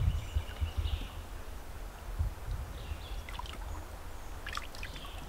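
River water and outdoor noise with a steady low rumble and a few faint high chirps.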